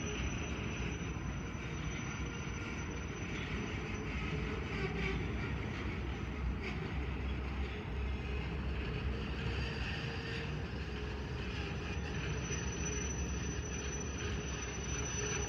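Canadian Pacific freight train's covered hopper cars rolling past, a steady rumble of steel wheels on the rails.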